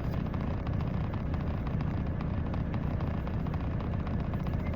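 Steady low engine rumble inside a semi truck's cab, with faint small clicks over it.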